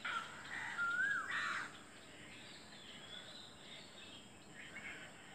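A bird gives two loud calls in the first two seconds, each sliding up and back down in pitch, followed by fainter chirping over quiet garden background.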